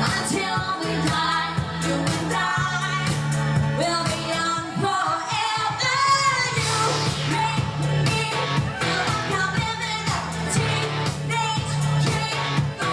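Pop song with a woman singing lead over a steady beat, bass and backing.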